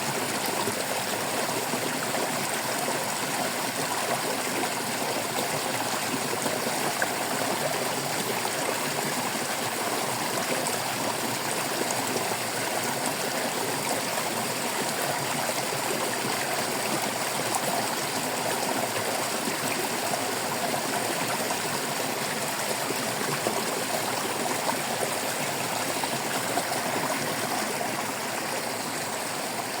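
Shallow stream running and babbling over rocks in a steady, unbroken flow.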